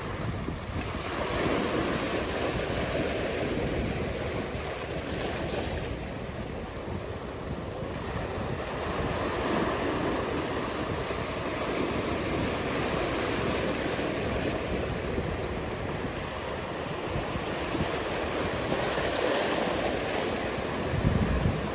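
Ocean surf washing and breaking in a steady rush that swells and eases every few seconds, with wind on the microphone. A brief low rumble of wind buffeting comes near the end.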